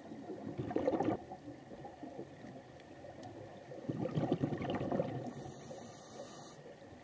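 Scuba diver breathing underwater through a regulator: two bubbling rushes of exhaled air, about a second in and again around four seconds in, and a high hiss of an inhalation near the end.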